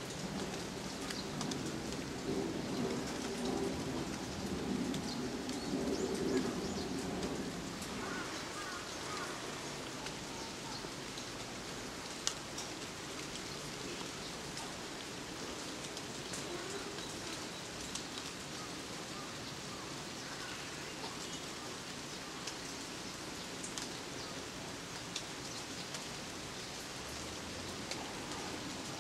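Rain falling on ginkgo leaves: a steady patter of drops with single sharp drip ticks scattered through it. A low rumble sits under the rain and dies away about eight seconds in.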